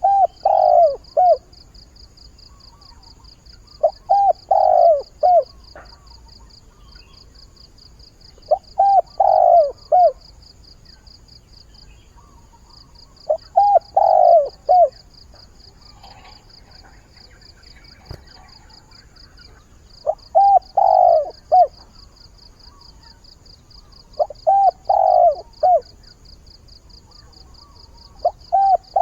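Decoy spotted dove (cu gáy) cooing its short three- to four-note song, the phrase repeated about every four to five seconds with one longer pause midway: a call to draw in wild doves. A faint, steady, high, fast-pulsing trill runs underneath.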